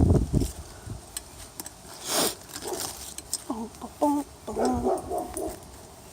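A neighbour's dog barking, a run of several short barks in the second half. Rustling handling noise at the start and a brief rush of noise about two seconds in.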